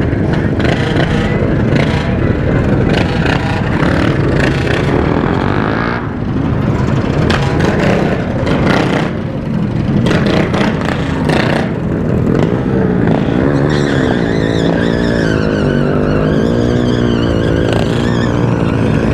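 Motor vehicle engine sound: a steady running noise, with an engine note rising and falling in pitch in the second half.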